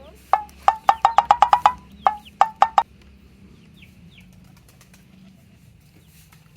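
A chicken clucking in a quick run of short, sharp notes, about a dozen within two and a half seconds and fastest in the middle, with a few faint high chirps after it.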